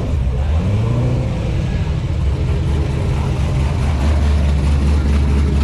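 A car engine running close by with a steady low drone, with a brief rise and fall in pitch about a second in.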